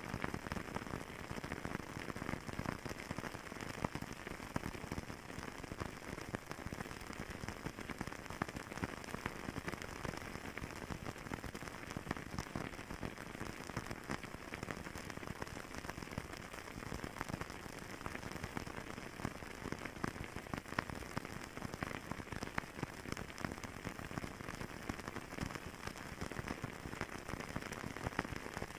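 Fireplace crackling steadily: a dense run of small pops and snaps over a soft hiss.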